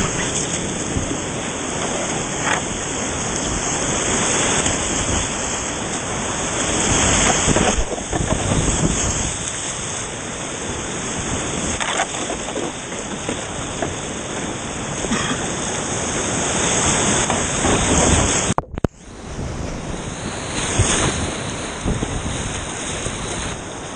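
Rushing whitewater of the Toxaway River rapids, a loud, steady rush of water. The sound drops out for a moment about three-quarters of the way through.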